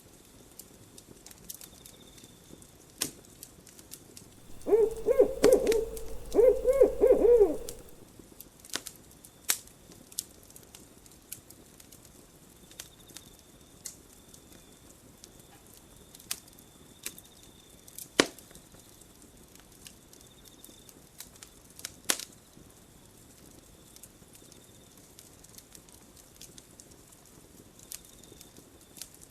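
Campfire crackling with scattered sharp pops, and an owl hooting in two short runs of hoots about five seconds in, the loudest sound here.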